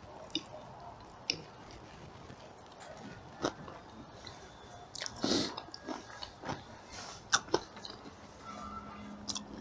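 A man chewing a mouthful of fried potato pancake, with a few light clicks of a fork on a plate. There is a short rush of noise about five seconds in and a low hum near the end.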